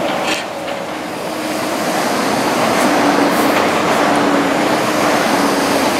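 MTR East Rail Line electric multiple-unit train passing close by. Its running noise grows louder about two seconds in as it draws level, with a steady hum.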